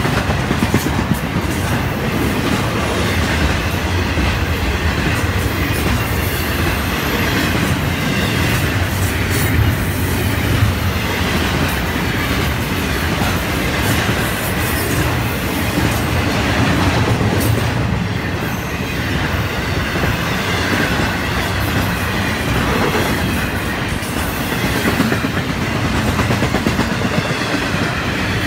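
Florida East Coast intermodal freight cars rolling past at speed: a loud, steady rumble and rattle of steel wheels on the rail, with clickety-clack from the wheels.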